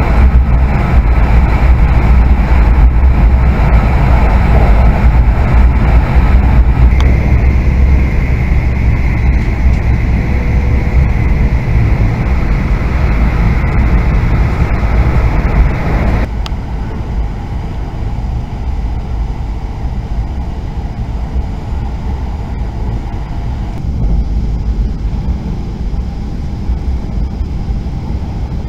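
Cabin noise of an E5 series Shinkansen running at speed in a tunnel: a loud, steady low rumble with a rush of air and running noise. About halfway through, the noise drops abruptly to a quieter, lighter rush.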